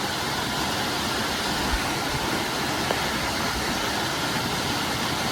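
Steady rush of a waterfall, an even wash of water noise with no change.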